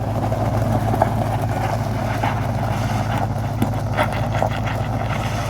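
Squarebody pickup truck's engine idling steadily, with a few faint ticks and knocks over it.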